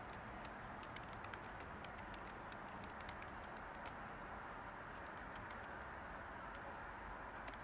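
Steady white-noise hiss with light, irregular computer keyboard key clicks over it.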